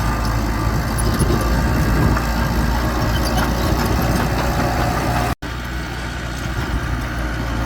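Diesel engine of heavy earthmoving equipment running steadily. The sound cuts out for an instant about five seconds in, then carries on.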